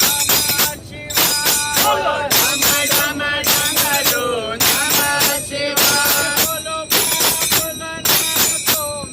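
A devotional bhajan: singing over jingling hand percussion, like tambourine or small cymbals, struck on a steady beat about three times a second.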